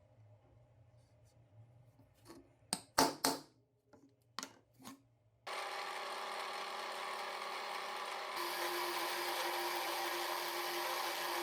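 A few sharp knocks, the loudest two close together, then a handheld power tool switches on suddenly and runs steadily. About three seconds after starting it gets louder and its pitch drops slightly.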